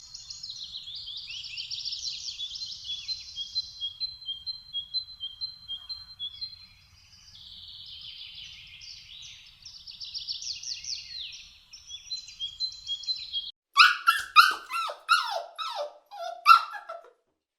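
Quiet, high-pitched chirping and twittering from small animals or birds, with a few brief held whistle-like tones. About two thirds of the way in it gives way to a run of roughly eight louder, sharp yelps that fall in pitch, like a young dog yelping.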